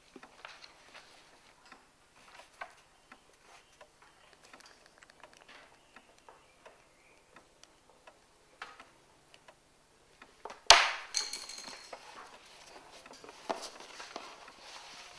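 Hushed exam room: faint scattered ticks and taps of pencils and pens on paper and desks. About ten and a half seconds in comes one sharp clack with a short ring, the loudest sound, then a softer knock a few seconds later.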